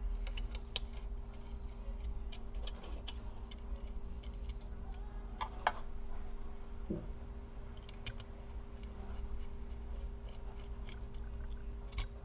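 Scattered light clicks and taps from hands working on a small laptop cooling fan and its parts, one sharper click about five and a half seconds in, over a faint steady hum.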